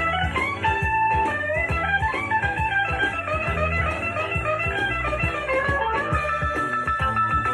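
Instrumental break of a rock and roll song: a lead guitar plays a moving melody over bass and a steady drum beat.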